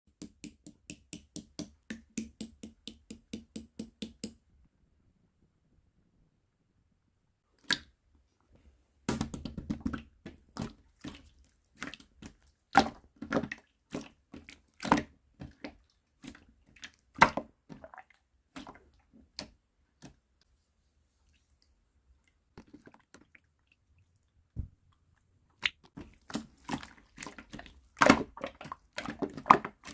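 Clear slime being squished and pressed by hand, making wet clicks and pops. It opens with a fast even run of about five clicks a second, then after a pause comes a stretch of irregular pops and squelches. After another lull, a dense cluster of pops fills the last few seconds.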